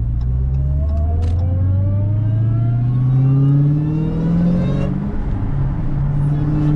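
Dodge Challenger SRT Hellcat's supercharged 6.2-litre HEMI V8, fitted with a Bwoody intake, accelerating as heard inside the cabin. The engine note climbs for about four seconds, then falls back about five seconds in and holds steady.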